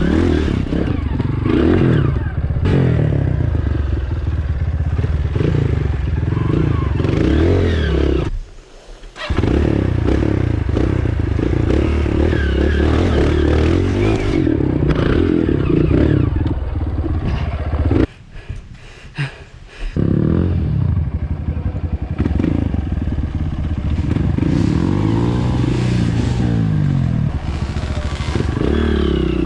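Trail dirt bike engine running under load over rough ground, its pitch rising and falling with the throttle, with clattering from the bike; the sound drops away briefly twice.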